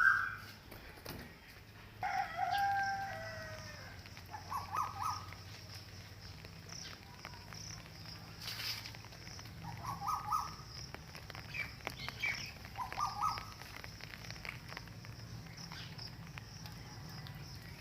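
Animal calls: a longer, wavering call about two seconds in, then short single calls every few seconds over a low steady hum.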